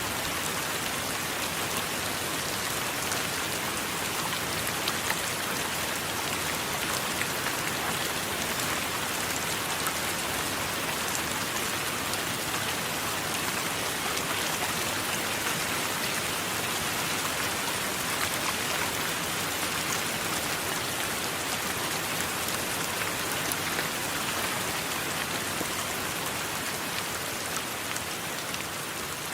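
Steady heavy rain, a dense even hiss with scattered small drop ticks.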